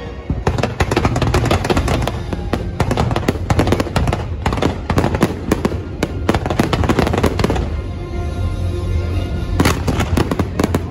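Fireworks going off in a dense barrage of rapid bangs and crackling. The barrage thins out about two-thirds of the way through, then comes back thick near the end, with the show's music playing underneath.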